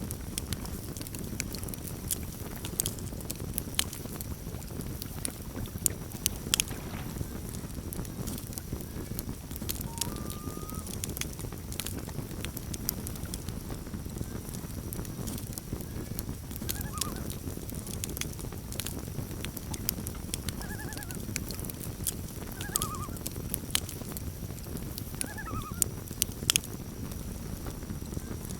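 Campfire burning with a steady low rumble and sharp crackles and pops, the loudest around six seconds in and near the end. Faint short, wavering calls of common loons come and go from about ten seconds in.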